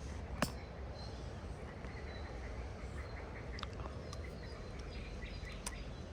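Birds chirping in short, scattered notes over a steady low rumble, with a sharp click about half a second in and a few fainter clicks later.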